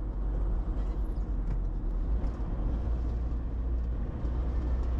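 Steady low rumble of a car's tyres and engine heard from inside the cabin while driving, with a few faint ticks.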